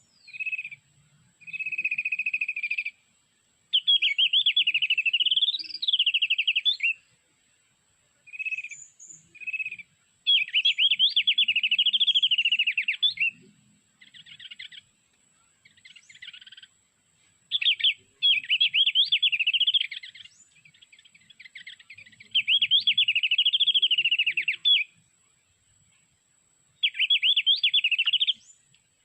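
White-eye (pleci) song: loud, fast, trilling warbled phrases a few seconds long, repeated about eight times with short single whistled notes in between. It is a lure call played from an MP3 player to draw white-eyes to the birdlime.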